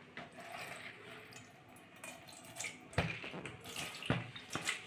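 Soaking water being poured out of a plastic sprouting container through the holes in its lid, draining off the green gram seeds: a faint trickle at first, then louder splashing from about three seconds in.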